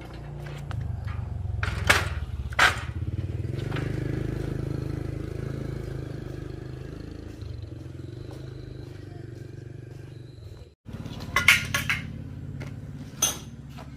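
A motor running steadily with a low hum, with sharp metal clanks and knocks over it: two near the start and a cluster of them near the end. The hum breaks off for a moment about eleven seconds in.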